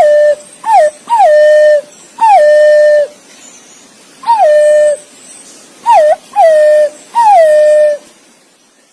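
Green pigeon (punai) giving a series of whistled calls, about eight notes, each a quick drop in pitch into a held, steady whistle, some clipped short; the calls stop about a second before the end.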